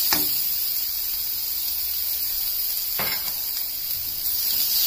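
Chopped onion, beans, carrot and green chilli sizzling in oil in a metal kadai, with a steady hiss. A spatula knocks against the pan twice: once at the start and once about three seconds in.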